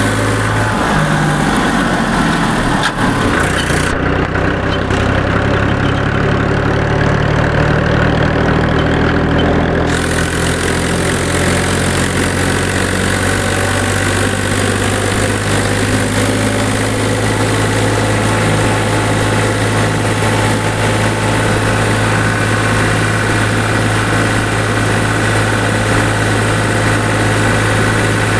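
Powertrac tractor's diesel engine running steadily under the load of a full trolley. Its note shifts in the first few seconds, then settles into an even drone.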